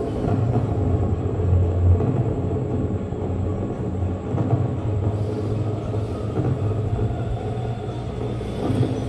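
A fireworks display heard as a loud, continuous low rumble, swelling heavier about a second and a half in.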